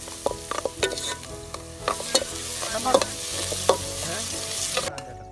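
Food sizzling as it fries in a pan, with a utensil stirring and clicking against the pan. The sizzling cuts off suddenly near the end.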